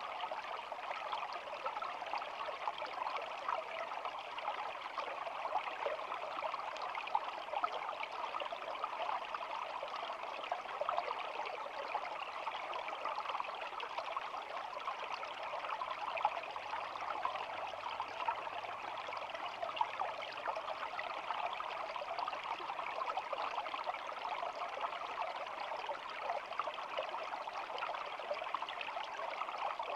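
Shallow stream flowing and babbling in a steady, even rush of water with a fine trickling texture.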